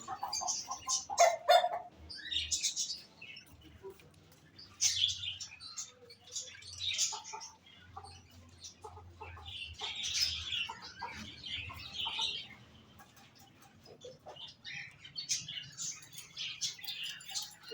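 Many caged birds chirping and twittering in bursts, with short quieter gaps between.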